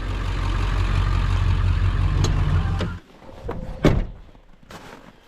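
Truck engine running with a steady low drone that stops abruptly about three seconds in, followed by a few sharp knocks, the loudest a little under four seconds in.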